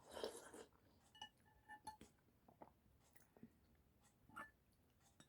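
Faint eating sounds: a spoon clinking lightly against a bowl a few times, with quiet chewing between.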